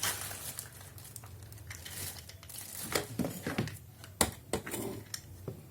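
Plastic packaging crinkling and rustling as it is handled, with scattered clicks and a sharp knock about four seconds in.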